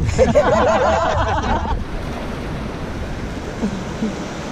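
River water rushing around a paddle raft, with wind noise on the microphone. A short burst of several excited voices from the rafters comes in the first two seconds.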